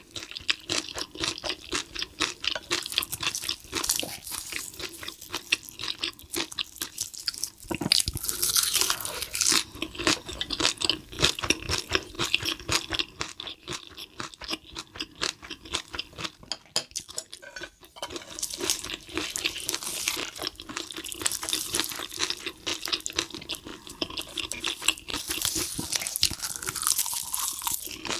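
Close-miked chewing of a mouthful of spicy stir-fried cuttlefish with noodles and rice: dense, rapid small wet clicks of the mouth working the food, easing off briefly about two thirds of the way in.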